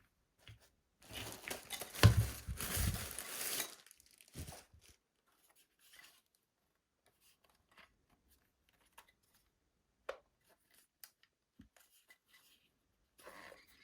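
Packaging of a mini fan being opened by hand: a loud, noisy stretch of ripping and rustling lasting about three seconds, starting about a second in, then scattered small clicks and brief rustles of handling.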